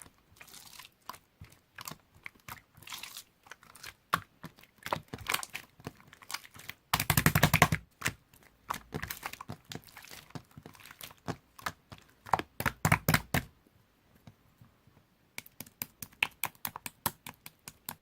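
Clear slime being squished and stretched by hand, giving wet clicking and popping crackles, with a dense loud burst of pops about seven seconds in. Near the end comes a quick, even run of clicks.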